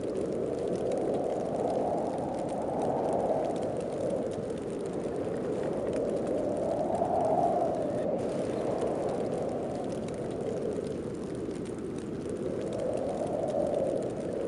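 Snowstorm wind blowing steadily, a low rushing that swells and eases in slow gusts every few seconds.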